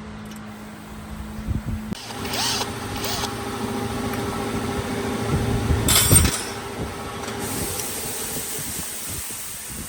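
An electric power tool running, starting about two seconds in and easing off near the end, with two short harsh bursts as it works, the second the loudest.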